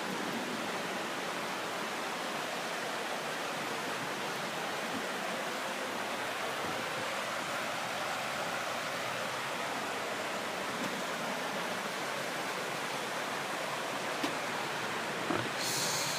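Steady rush of flowing water from the Pistyll Rhaeadr waterfall. There is a small click near the end and a brief high hiss just at the close.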